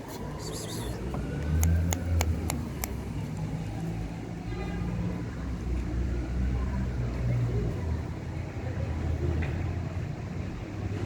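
A vehicle engine running with a low rumble, as in street traffic, with a quick run of sharp clicks about two seconds in.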